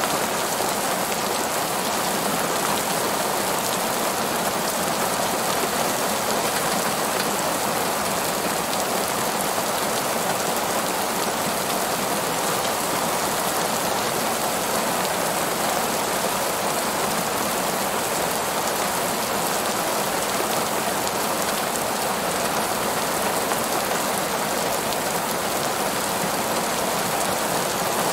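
Heavy rain falling on a paved parking lot, a steady, even hiss of countless drops.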